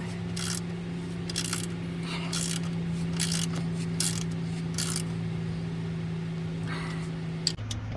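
Ratchet wrench strokes, about one a second, tightening a shock absorber's mount nut, with a steady low hum behind that stops shortly before the end. A few sharp clicks follow near the end.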